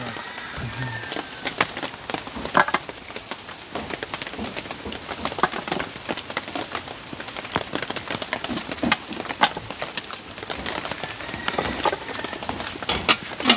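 Rain falling steadily, with scattered sharp taps scattered through it.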